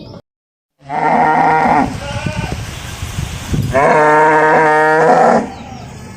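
Cow mooing twice: a shorter call about a second in, then a longer call near the middle, with breathy noise between.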